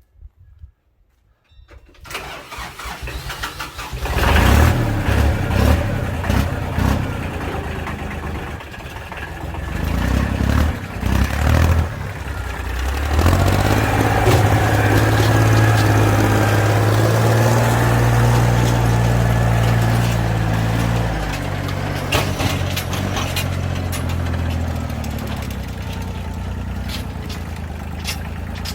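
Farm tractor engine being started: it catches about four seconds in and runs unevenly for several seconds. It then runs steadily at higher revs, and settles to a lower, steady running speed a little past twenty seconds in.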